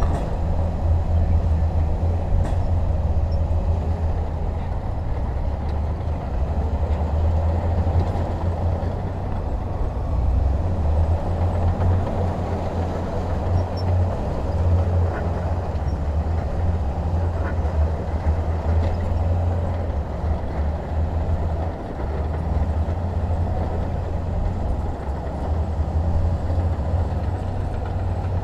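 Heavy diesel machinery engine running steadily with a deep, continuous drone.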